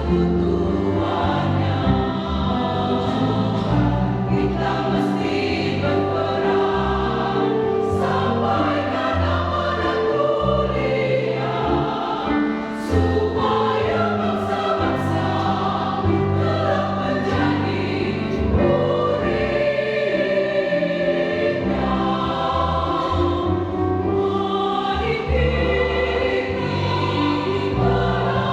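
Church choir singing a song of praise in several voice parts, with long held chords that change every second or two.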